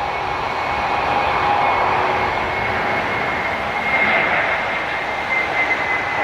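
Jet airliner's engines running loudly, a steady rush of noise with a thin high whine that slowly sinks in pitch.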